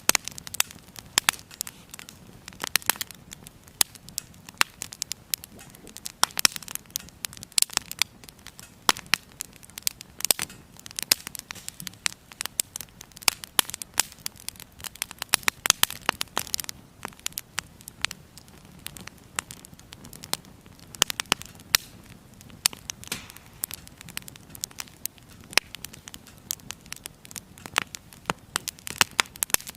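Firewood burning in a small Firebox camp stove, crackling steadily with many irregular sharp pops and snaps over a faint low hiss.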